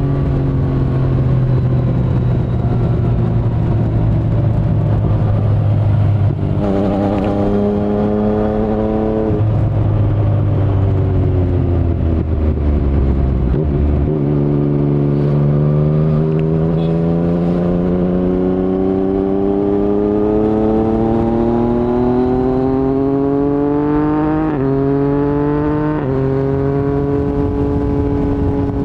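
Yamaha MT-09 inline-triple engine through an Akrapovic carbon full-system exhaust with no DB killer, heard while riding. The revs jump once, then fall off as the bike slows. It then pulls steadily up through the revs, with two quick upshifts near the end, each dropping the pitch suddenly.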